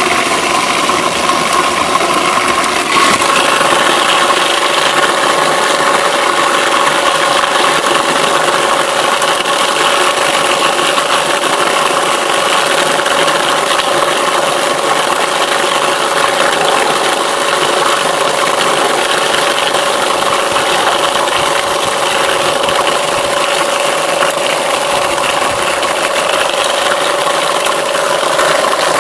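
Homemade apple crusher driven by a Zarya-2M washing-machine electric motor, running steadily with a constant hum and rattling as it chops apples into pulp.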